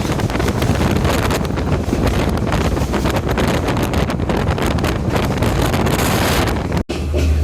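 Wind buffeting the microphone over the rush of a moving train. Near the end the sound breaks off for an instant and gives way to a steadier low hum.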